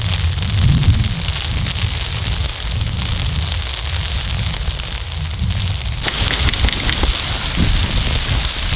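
Heavy falling snow hissing and pattering over a low rumble. About six seconds in it grows louder and crisper, with scattered ticks.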